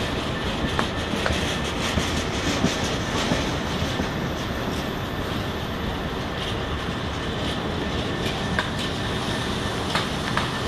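Empty intermodal container flat wagons of a freight train rolling past close by. It is a steady rumble of wheels on rail, with irregular sharp clicks as the wheels pass over rail joints.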